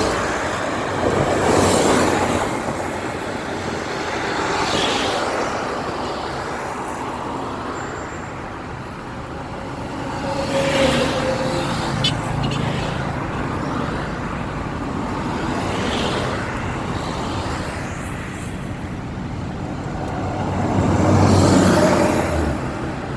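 Road traffic on a busy city avenue: cars and buses passing one after another, each swelling and fading, the loudest going by near the end.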